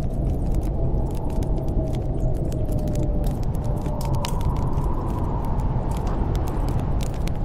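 Steady low rush of storm wind with a faint wavering whistle, over a wood fire crackling in a fireplace with frequent sharp snaps.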